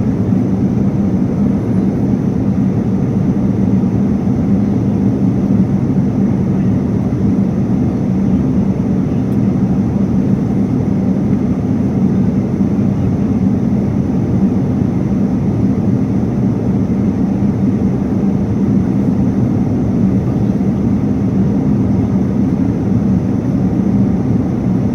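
Steady roar of an airliner cabin in flight: engine and airflow noise, heaviest in the low end with a constant hum underneath, unchanging throughout.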